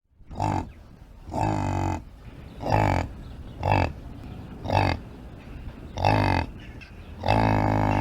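Domestic yak grunting: seven short, deep grunts, about one a second, the last one drawn out longer.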